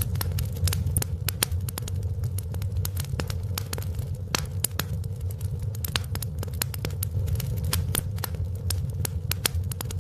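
Wood fire in a fireplace crackling: a dense, irregular run of sharp pops and snaps over a steady low rumble of the burning fire.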